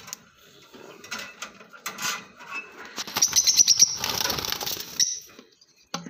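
A cage bird flapping its wings in a flurry for about two seconds, starting about three seconds in, with a quick run of high chirps at the start of the flurry. Scattered small knocks and rustles come before it.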